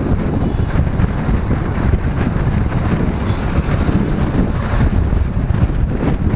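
Motorcycle riding noise: steady wind buffeting on the microphone over the bike's engine and road noise.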